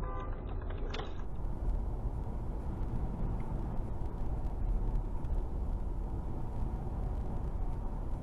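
Steady road and engine noise of a car driving, a low rumble with tyre hiss, after a sharp click about a second in.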